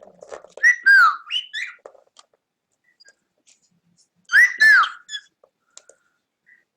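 Cockatiel whistling: a quick run of short arched, falling notes about a second in, then another about four seconds in.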